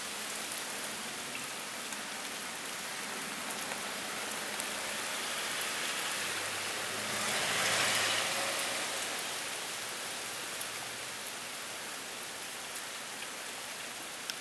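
Heavy rain pouring down in a cold-front downpour: a steady hiss with scattered ticks of drops striking nearby surfaces. The rush swells briefly about halfway through, then settles back.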